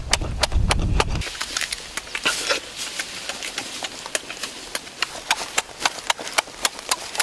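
Close-up wet chewing and lip-smacking of a person eating cooked lobster, an irregular run of sharp clicks a few times a second. A low rumble underlies the first second or so.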